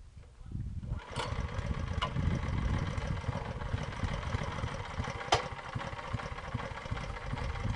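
Dirt bike engine starting about a second in and then running steadily at idle, with a few sharp clicks.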